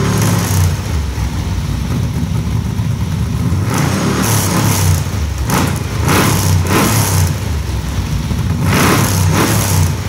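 Off-road buggy's engine idling, revved three times: about four, six and nine seconds in, each rev rising and falling back to idle.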